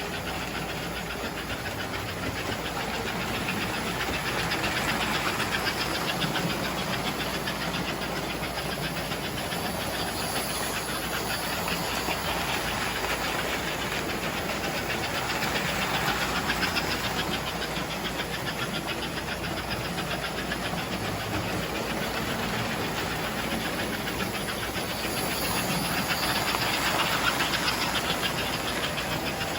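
An American Flyer model steam locomotive running around a toy train layout: a steady motor-and-gear whir with rapid clicking of wheels on the track. It gets louder about every 11 seconds as the train comes round the loop past the listener.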